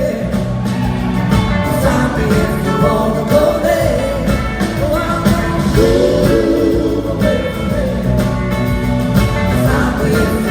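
Rock-blues band playing live between sung verses: drums and bass keeping a steady beat under guitars and long held, bending notes.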